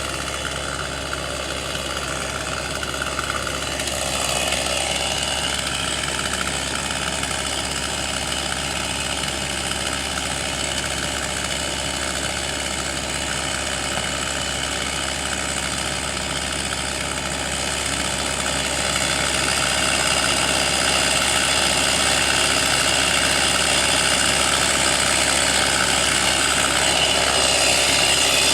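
An engine running steadily at idle, growing a little louder about four seconds in and again past the middle.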